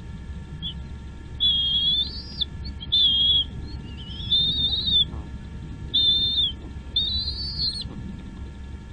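A bird giving a series of five high whistled calls, each half a second to a second long, several rising in pitch at the end.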